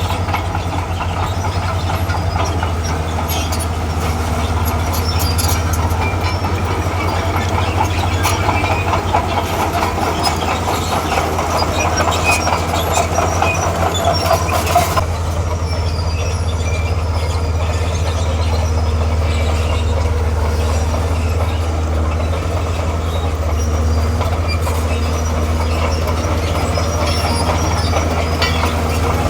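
Diesel engine of a tracked earthmoving machine running steadily under load, with the metal rattle and clank of its crawler tracks. A higher whine builds up and cuts off about halfway through.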